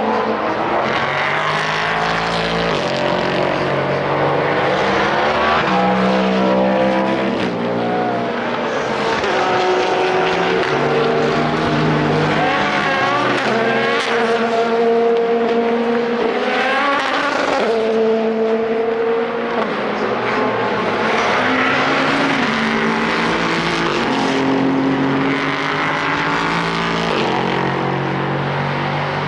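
Several IMSA sports car race engines running hard as the cars pass, overlapping one another. Their pitch climbs and then drops in steps as they shift gears.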